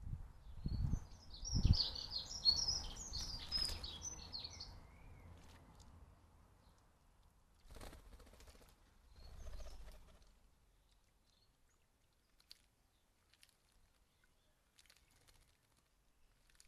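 Small garden birds chirping, a quick cluster of high calls in the first few seconds over low thumps and rustling. After that it goes mostly quiet apart from two short rustles and a few faint ticks.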